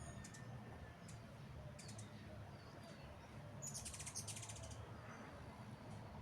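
Small birds chirping: scattered short high chirps, with a quick run of rapid chirps a little past the middle, over a faint low hum.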